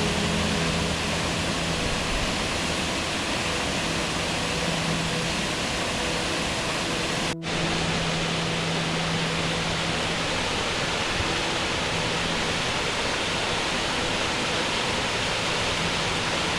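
Steady rushing roar of a 30-metre waterfall's falling water, even and unbroken apart from a momentary break about seven seconds in.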